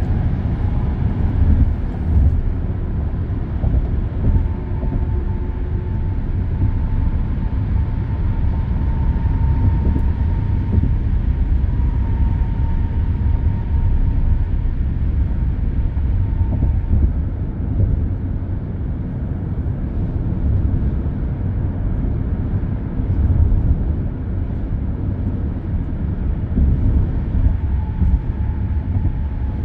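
Continuous expressway traffic noise: a steady low rumble of passing vehicles and tyres on the road, with a faint steady hum that comes and goes.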